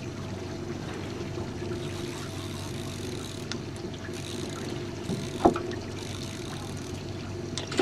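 Jon boat's motor running steadily, with a single short knock about five and a half seconds in.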